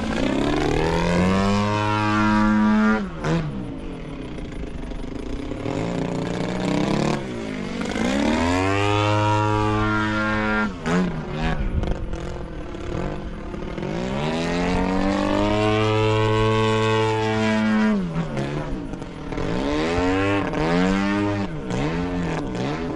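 Radio-controlled model airplane engine flying repeated passes overhead, its pitch sweeping up and down with each pass, three loud passes in all.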